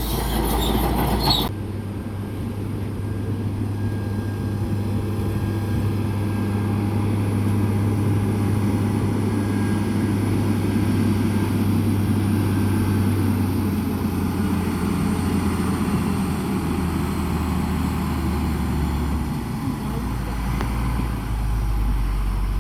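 Heavy diesel earthmoving machinery running steadily with a deep, even rumble that shifts in pitch near the end. It opens with a louder squeaking, clanking passage that cuts off about a second and a half in.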